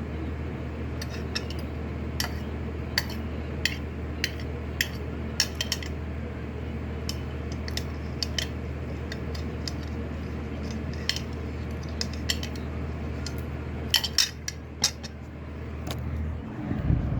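Eating utensils clicking and clinking against a bowl at irregular intervals, a few clinks in quick succession near the end. A steady low electric-fan hum runs underneath and cuts out shortly before the end.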